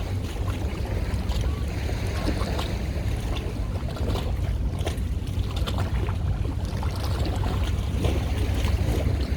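Steady low rumble of a boat's engine on the water, with wind noise on the microphone.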